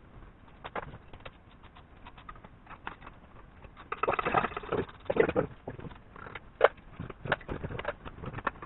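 Scattered clicks and knocks of tools and metal engine parts being handled, with a spell of clattering about four seconds in.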